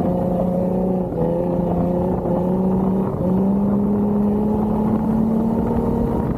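Jeep Wrangler engine running steadily under load, its pitch dipping briefly twice and then climbing slowly.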